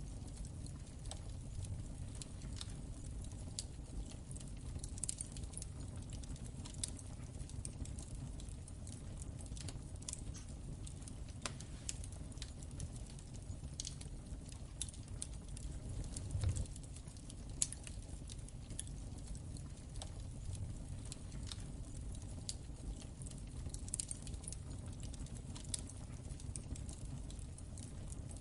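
Wood fire crackling in a fireplace: irregular small pops and snaps over a steady low rumble of the flames, with one louder low surge about sixteen seconds in.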